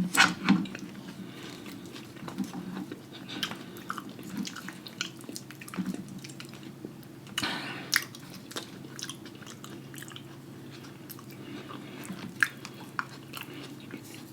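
A person chewing and biting into food close to the microphone, eating a loaded lobster tail seafood boil, with many short irregular mouth clicks and smacks. There is a louder crackle about halfway through.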